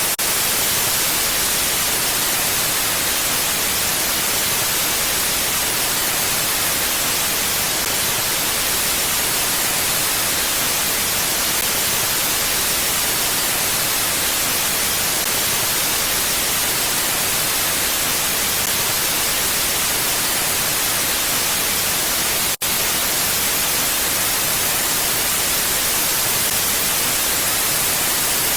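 Steady, even hiss of a mountain wind ambience, with no gusts or swells. It cuts out for an instant about three quarters of the way through.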